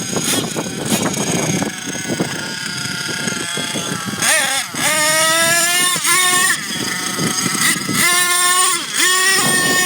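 Small nitro glow engine of a Thunder Tiger MTA4 S28 RC monster truck, running rough and noisy at first. From about four seconds in it revs up again and again, each rev a high whine that rises in pitch and then drops off.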